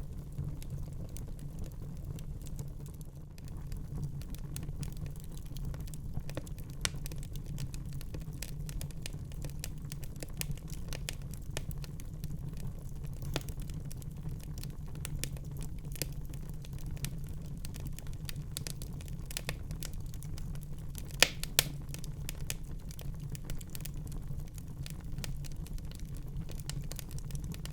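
Wood fire burning in a fireplace: a steady low rumble of the flames with irregular sharp crackles and pops from the burning logs, the loudest pops about 21 seconds in.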